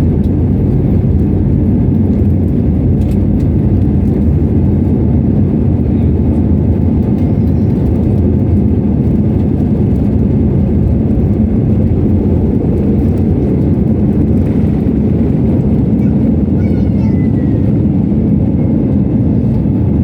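Airbus A320neo engines running with a steady low rumble that holds even, without rising or falling.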